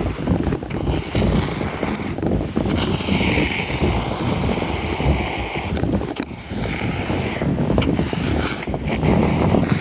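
Kayak hull hissing and scraping as it slides over heavy snow, with wind buffeting the microphone and a few brief knocks.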